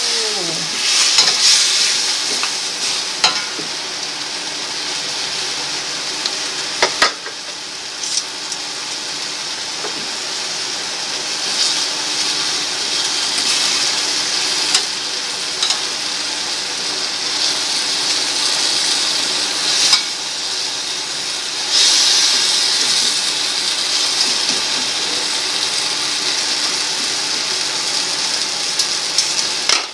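Chicken pieces sautéing in a little oil with tomato and onion in a stainless steel pan, sizzling steadily as they are stirred with a wooden spatula, with a few sharp knocks of the spatula against the pan.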